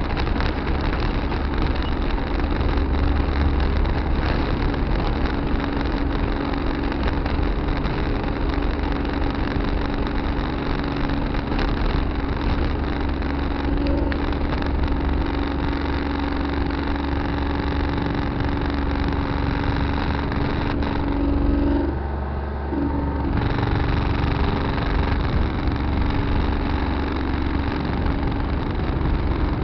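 Farm tractor engine running steadily with a constant hum, heard from the tractor's dash camera while working. About two-thirds of the way through it goes briefly quieter and duller for about two seconds, then returns to the same steady running.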